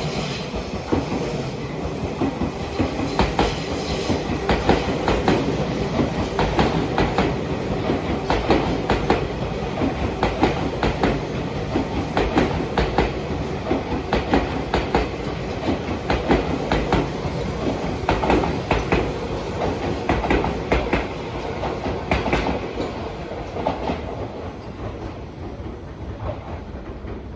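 Tobu Railway electric train running along the track, its wheels clacking rapidly and repeatedly over rail joints over a steady rumble. The sound fades slightly near the end.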